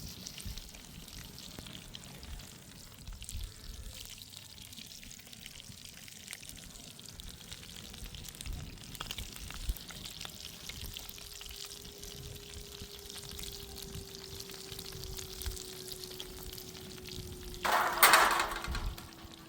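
Food frying in a pan: a steady sizzle with small crackles and pops. A faint steady hum comes in about halfway, and a brief, much louder burst of sizzling rush comes near the end.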